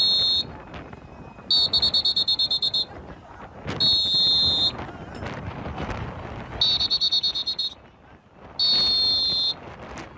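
Repeated shrill whistle blasts, each about a second long, several of them trilling rapidly and the others held steady, over a continuous rushing of wind on the microphone.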